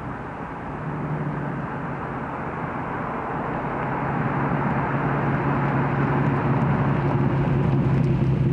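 2009 Infiniti G37S's 3.7-litre V6 through an exhaust with resonated test pipes and a Nismo-style exhaust, running at steady revs. The engine note holds one pitch and grows gradually louder as the car approaches.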